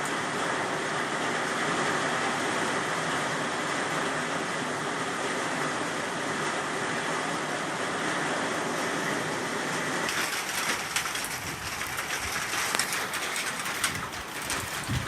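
Heavy rain falling, a steady rushing hiss for about ten seconds, then abruptly giving way to a closer, crackling patter of drops hitting a surface.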